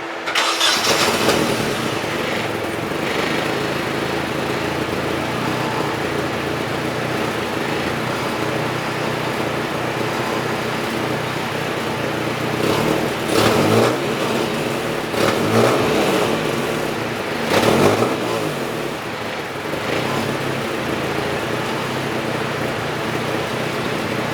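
Nissan 240SX S13's four-cylinder engine starting and idling on its stock exhaust, revved briefly three times around the middle. It sounds terrible: a very bad exhaust leak, likely with no gasket left at the joint.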